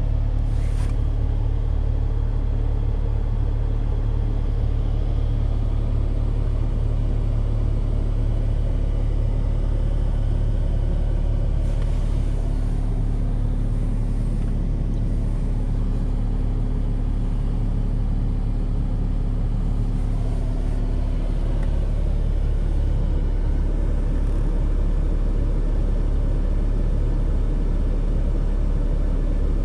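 BMW E46 320d's four-cylinder turbodiesel idling steadily, still cold from a start at about −10 °C.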